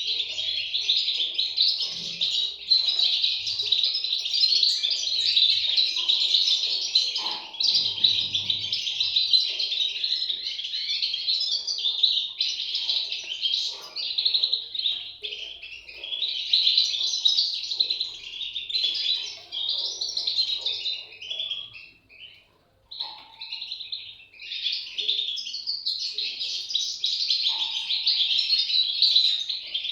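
European goldfinch chicks chirping continuously in a dense high twittering, which drops out for about a second some two-thirds of the way through.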